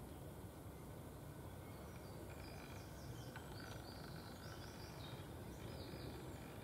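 Faint outdoor ambience: a steady low rumble with a series of small, high bird chirps from about two and a half seconds in.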